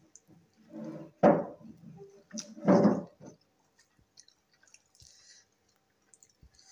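A person chewing a mouthful of rice and mashed-bean bhorta eaten by hand, with wet mouth sounds that are loudest twice in the first three seconds. Later come only faint clicks and soft squishes of fingers working the rice on the plate.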